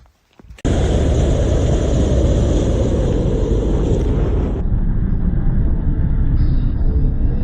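Loud, steady rumbling road and wind noise of a moving vehicle, starting abruptly about half a second in.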